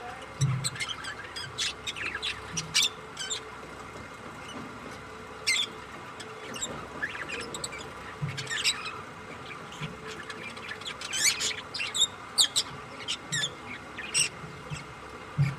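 Small pet parrots chirping and squawking in short, scattered, high calls, with a few soft low thumps between them.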